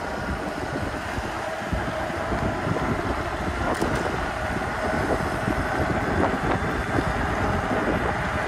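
Wind buffeting the microphone of a chest-mounted camera while riding an e-bike, a steady rushing noise with rolling road noise underneath.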